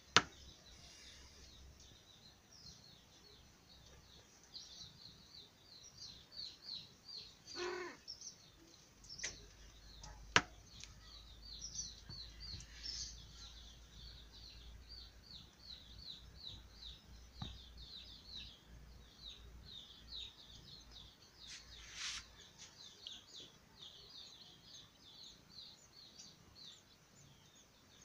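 Small birds chirping in quick high-pitched series, about four chirps a second, with two sharp clicks about ten seconds in.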